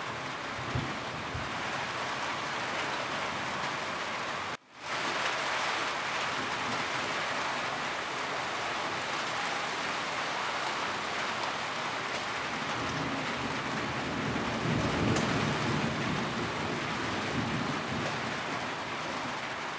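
Steady, dense rain falling on a roof. A low rumble swells up about three-quarters of the way through, and the sound cuts out for an instant about four and a half seconds in.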